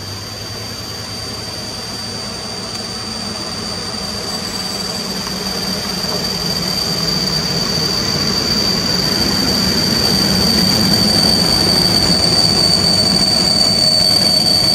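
PKP EP07 electric locomotive and its passenger coaches passing close, the rumble growing steadily louder as it nears. A steady high-pitched squeal runs through it and gets louder as the locomotive comes alongside.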